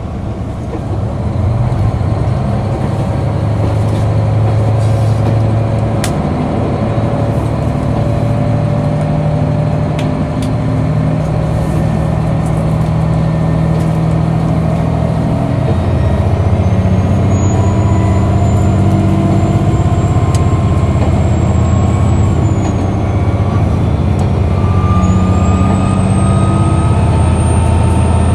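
KiHa 261 series diesel railcar's diesel engine running hard as the train travels, a loud steady low drone with tones slowly rising in pitch as it gathers speed. It gets louder about a second in and again about two-thirds of the way through, where a thin high whine joins, dips and rises again.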